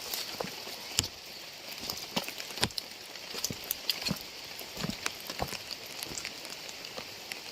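Rain falling with a steady hiss, and large single drops striking close by at an irregular pace, a few per second.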